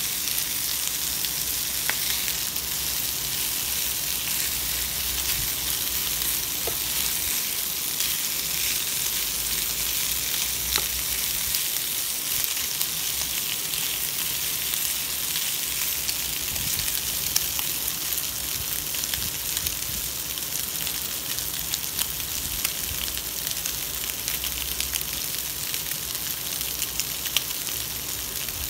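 Marinated chicken breast pieces sizzling in hot oil in a frying pan: a steady hiss with scattered pops and crackles.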